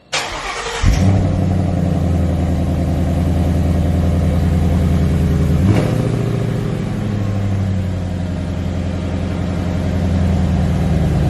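2016 Ford Mustang GT's 5.0 L V8 through an AWE Track Edition exhaust. After a short rush of noise, the engine fires about a second in and settles into a steady, deep idle, with a single click near the middle.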